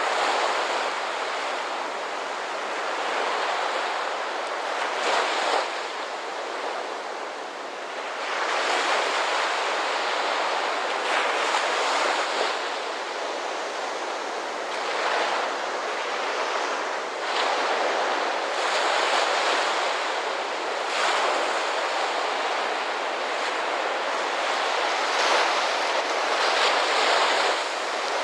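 Ocean surf: waves breaking and washing in, a new surge every few seconds over a steady rush of water.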